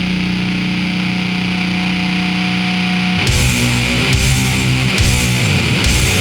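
Heavily distorted electric bass playing in a heavy metal style. One note is held for about three seconds, then it moves into a riff of changing lower notes.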